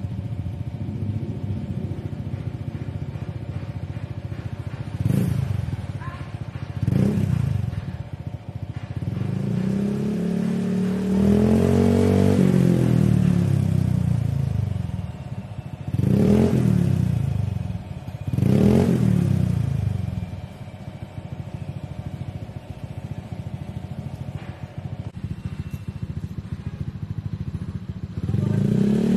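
Honda ADV 150 scooter's single-cylinder engine idling through an aftermarket Akrapovic slip-on exhaust, blipped several times: short revs, one longer rev that climbs and falls back, then idle again, with a new rev starting near the end.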